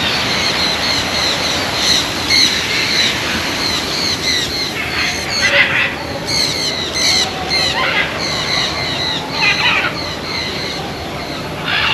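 A chorus of many birds calling at once: short, high chirps repeated over and over, over a steady rushing background.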